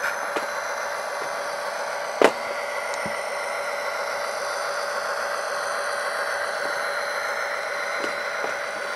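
Model locomotive's Tsunami sound decoder playing a steady diesel engine sound through its small onboard speaker, with a sharp click about two seconds in.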